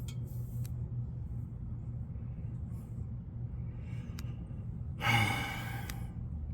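A man's breathy sigh about five seconds in, over a steady low hum.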